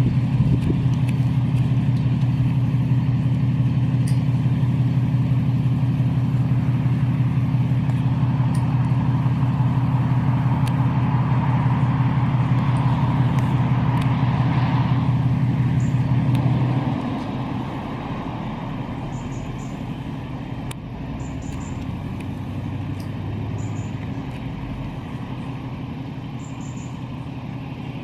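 A vehicle engine running with a steady low hum, which drops away about seventeen seconds in, leaving a quieter rumble.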